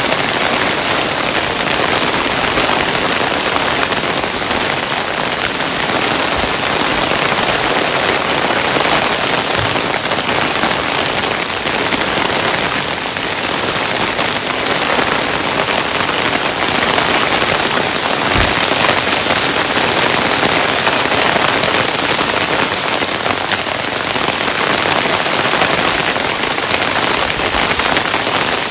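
Hailstones falling steadily, a dense, even patter of many small hits with no let-up.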